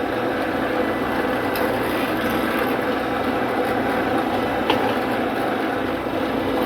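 Drill press running steadily while drilling pilot holes into wooden center rests, with a single sharp tick about five seconds in.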